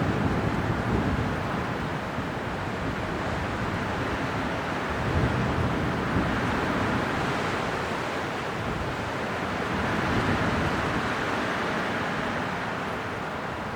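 Strong winter wind blowing steadily, swelling and easing in slow gusts, with a rush most of it below about 2 kHz.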